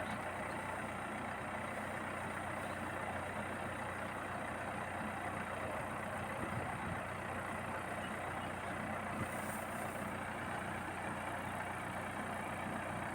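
Combine harvester running steadily, its engine holding an even hum under a constant mechanical clatter.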